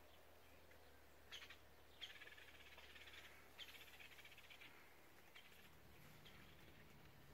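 Near silence, with a bird's faint high chirps and two short buzzy trills.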